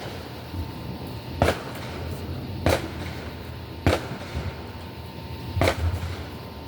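Fireworks going off: four sharp bangs about a second apart.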